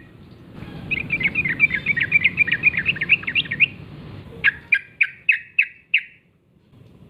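Yellow-vented bulbul (trucukan) singing: a fast, bubbling run of chattering notes, then about six louder, separate notes roughly a third of a second apart, stopping about six seconds in.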